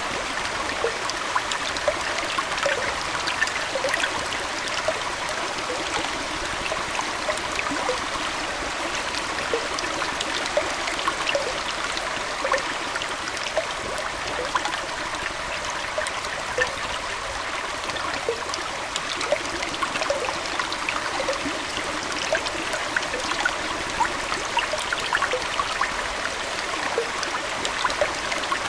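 Aquarium water flowing and trickling steadily, with many small splashes and droplets.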